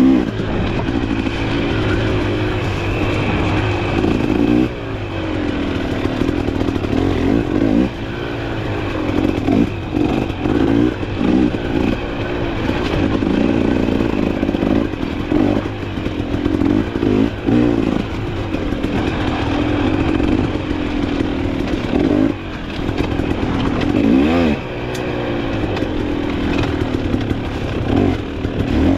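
Dirt bike engine under way off-road, its pitch rising and falling over and over as the throttle is opened and rolled off, with a few short drops in loudness.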